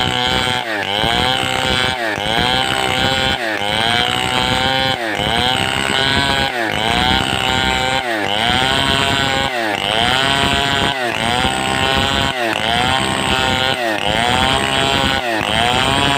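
Stihl 070-pattern two-stroke chainsaw cutting with a rocking, swinging stroke. The engine pitch rises and falls rhythmically, a little more than once a second, as the bar is swung through the cut.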